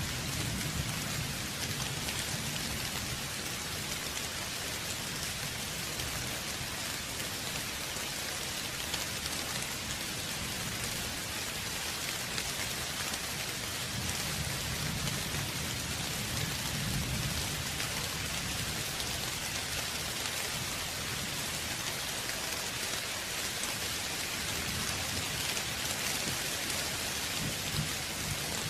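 Steady, dense rain falling on a surface, a continuous hiss of many drops. Low rumbles of distant thunder swell up at the start, around the middle and again near the end.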